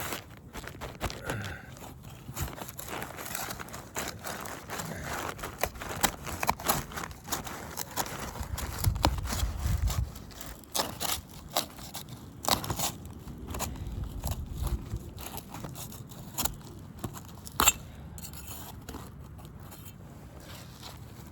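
Asphalt roof shingles being pried up and unsealed: crackling, scraping and tearing as the sealant strips pull apart, with scattered sharp clicks and knocks. The shingles are ripping at the sealant strip instead of releasing cleanly.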